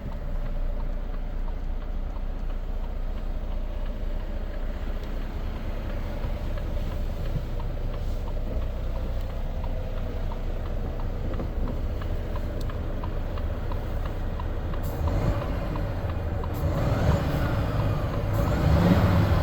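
Volvo FH 500 truck's 13-litre six-cylinder diesel engine running steadily, growing louder with gliding pitch near the end.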